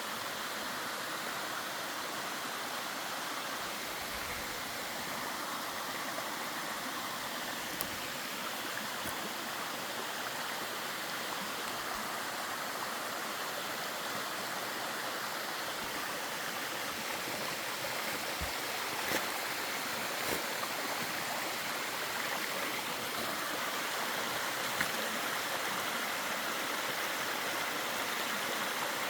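Mountain stream running over rocks: a steady wash of flowing water, with a few faint knocks about two-thirds of the way through.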